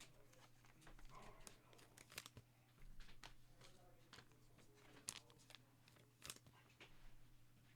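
Faint crinkling, rustling and tearing as trading-card pack wrappers and cards are handled, with a handful of soft sharp clicks about a second apart, over a low steady hum.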